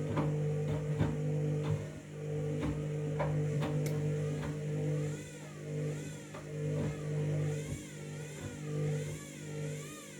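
Washing machine drum turning a bath mat, its motor running with a steady hum and regular knocks about twice a second over the first few seconds. From about halfway a motor whine wavers up and down in pitch.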